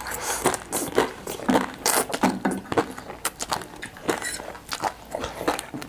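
Close-up eating sounds: chewing, with irregular wet mouth clicks and smacks.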